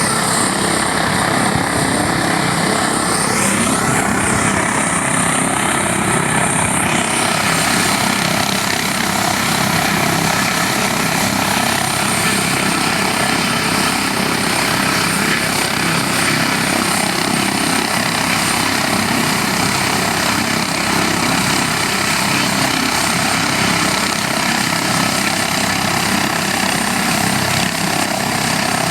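Helicopter running close by: loud, steady rotor and engine noise.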